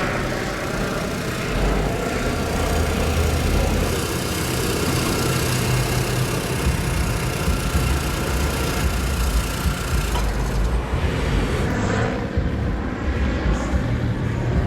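Car engines and exhausts running in street traffic, a steady low rumble throughout.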